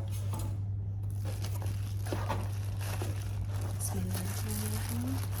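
Packaging being handled during unboxing, with irregular crinkling and rustling over a steady low hum.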